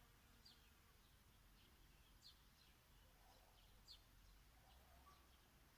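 Faint birdsong: short, high chirps that sweep downward, coming every second or so, over a low background rumble.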